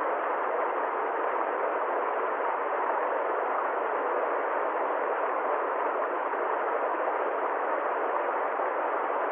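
Steady, unchanging rushing noise with no rhythm, strokes or pitch, muffled, without deep rumble or high hiss.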